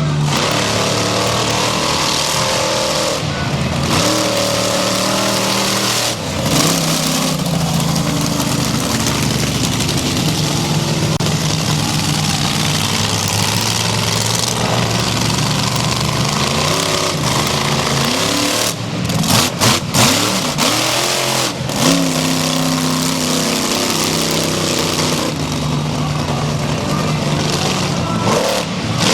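Monster truck V8 engine running loud and revving, its pitch rising and falling several times, with a few brief dips about two-thirds of the way through.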